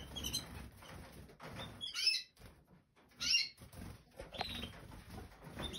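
Canaries giving a few short, high chirps, with faint wing flapping from birds flying about the room.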